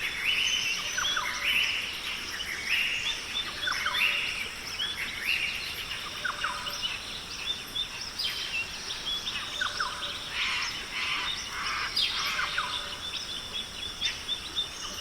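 Forest ambience: many birds chirping and calling in short, overlapping phrases over a steady high-pitched background hum.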